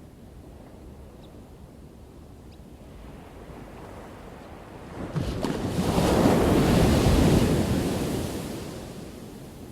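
Ocean surf: a low rumble, then about five seconds in a wave breaks with a sudden loud crash that swells for a couple of seconds and washes away.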